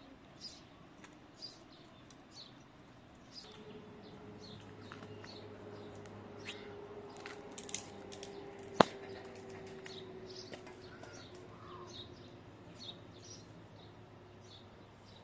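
Small birds chirping in short, repeated high calls, with a faint steady hum through the middle and one sharp click about nine seconds in.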